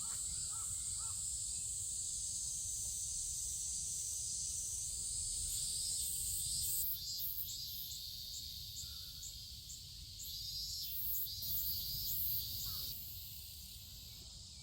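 Chorus of insects chirping outdoors on a summer evening: a steady high-pitched drone that changes about halfway through into rapid, evenly repeated chirps, over a constant low rumble.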